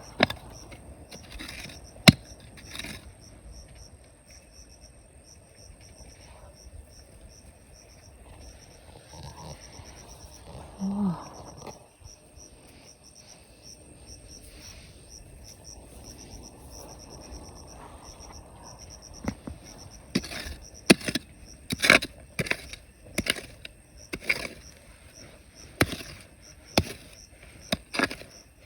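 Insects chirping in a rapid, pulsing high trill over a quiet outdoor background. In the second half a run of sharp knocks comes about once a second, like a hard tool striking rock and gravel.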